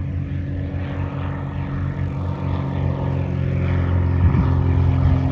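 Propeller aircraft engine running with a steady drone, getting louder toward the end.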